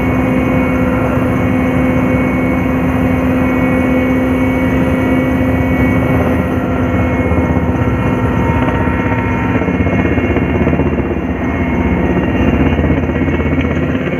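Steady engine and rotor hum of an aircraft in flight, holding one constant pitch.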